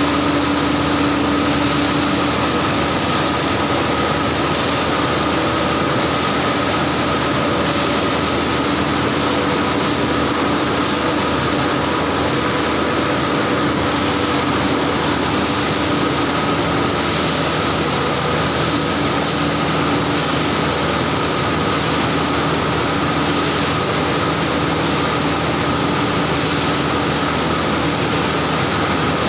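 Machinery running steadily during concreting work: a loud, continuous drone with a constant hum and no change in speed.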